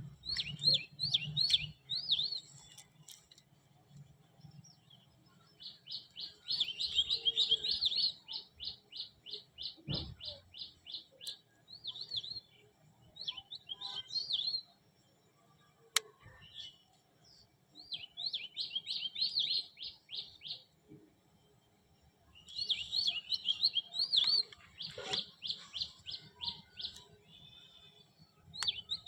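Bird chirping in rapid trilled bursts of one to three seconds, separated by short pauses, with a few faint knocks in between.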